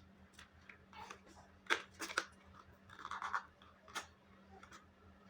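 Small gift boxes being opened by hand: a few sharp clicks and a short stretch of crinkling packaging about three seconds in.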